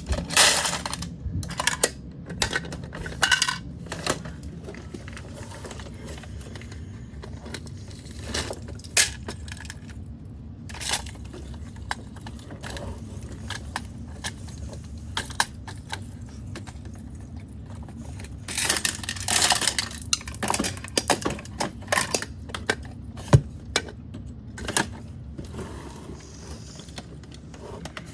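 Small hard objects clicking and clattering irregularly, with denser rattling bursts near the start and about two-thirds of the way through, over a steady low hum.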